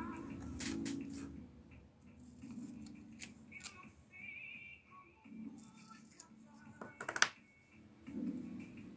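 Light metallic clicks and handling of clipper parts while a blade is fitted to a Wahl Senior clipper, with a cluster of clicks about seven seconds in. Faint low hums of about a second each come and go between the clicks.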